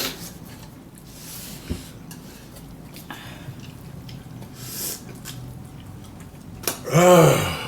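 Quiet eating of spicy instant noodles with chopsticks: soft utensil and bowl sounds, sniffing and breathing, with a single knock about two seconds in. Near the end a short, loud vocal exclamation falls in pitch.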